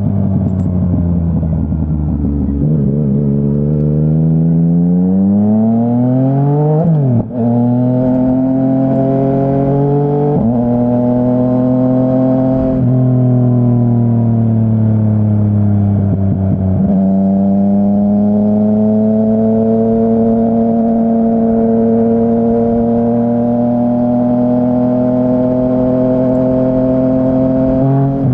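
2017 Yamaha Tracer 900's 847 cc inline-three engine through a Dominator HP3 full exhaust system, recorded from the rider's backpack. The revs fall, then the engine pulls hard and shifts up, with sudden pitch drops about seven, ten and thirteen seconds in. It then settles into a steady cruise with slowly rising revs.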